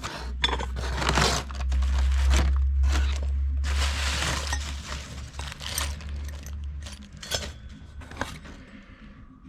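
Rustling and light metallic clinks of a new aftermarket dirt-bike clutch basket being handled, over a low steady hum.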